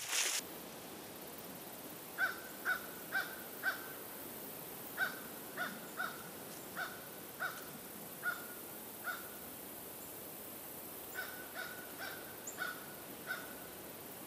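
A bird calling: three runs of short calls, about two a second, with pauses between them. A brief rustle of brush at the very start.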